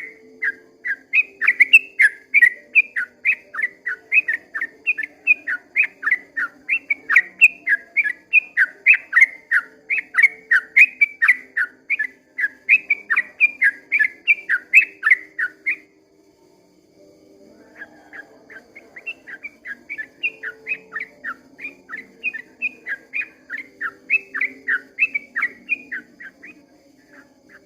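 Yellow-vented bulbul (trucukan) singing a long, fast run of chirping notes at about four or five a second. The run breaks off about sixteen seconds in and resumes softer a couple of seconds later.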